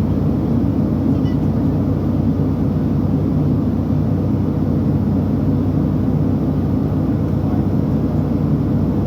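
Steady cabin drone of a Boeing 757-300 in flight: engine and airflow noise heard from inside the economy cabin, deep and even throughout.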